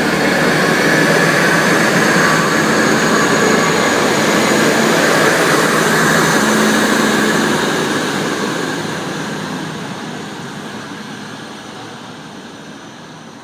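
Hunter diesel railcar set pulling away from the platform: a loud, steady engine and wheel noise with a faint rising whine, which fades away over the last five seconds or so as the train leaves.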